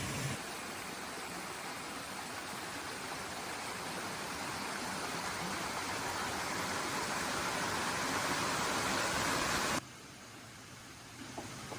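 Steady rush of water noise, a hiss that grows slightly louder and then cuts off abruptly near the end. A quieter stretch follows, with a few faint clicks.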